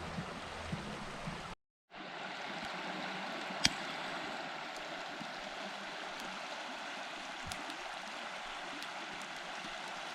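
Steady rush of a river flowing, with a few sharp clicks, one louder about three and a half seconds in. The sound cuts out for a moment about one and a half seconds in.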